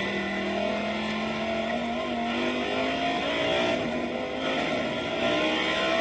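Audi R8 GT4 race car's V10 engine under hard acceleration, its pitch climbing repeatedly as it runs up through the gears.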